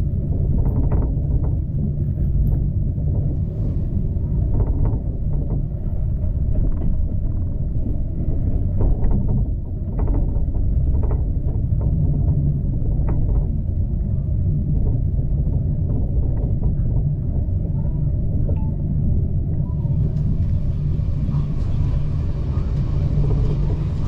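Heritage train carriage running along the track: a steady low rumble with scattered clicks and knocks in the first half, and a hiss that comes in about twenty seconds in.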